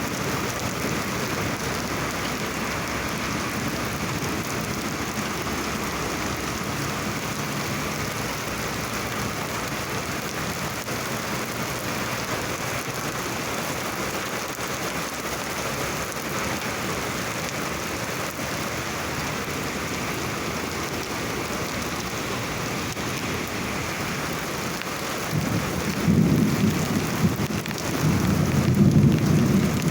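Rain falling steadily, with a low rumble of thunder swelling up about four seconds before the end.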